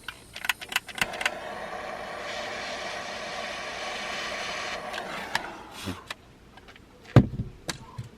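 Several sharp clicks, then a gas soldering torch's flame hissing steadily for about four seconds while solder is melted onto a splice of ground wires; the hiss fades out and a loud knock follows near the end.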